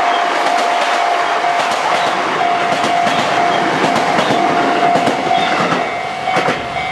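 Sotetsu 21000 series electric train passing close by, its wheels clacking over rail joints, with a level crossing warning bell ringing as a steady tone.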